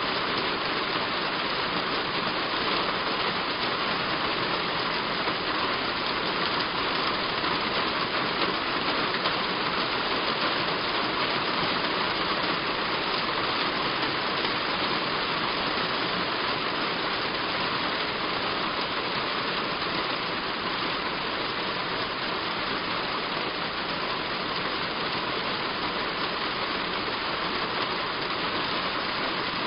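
Heavy rain falling steadily on a roof, an even, unbroken patter with no single sounds standing out.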